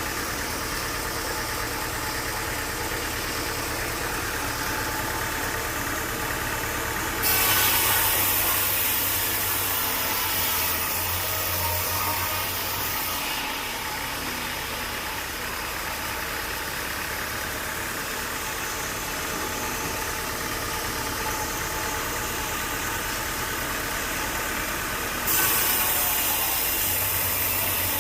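Sawmill engine running steadily, with a loud hissing rasp of the saw cutting through a log starting suddenly about seven seconds in and lasting some six seconds, then starting again near the end.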